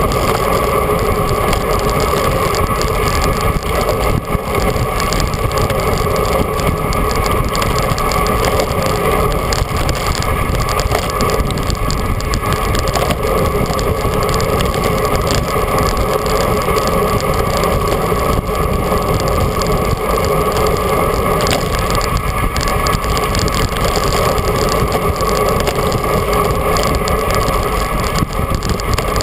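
Steady rush of wind and tyre noise from a bicycle rolling at speed, with a constant droning hum, heard on a mounted action camera's microphone.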